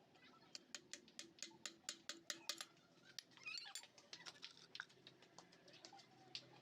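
A quick run of light, sharp taps, about five a second, for around two seconds, then scattered clicks and handling noise: new suspension bushes being tapped lightly into their seats.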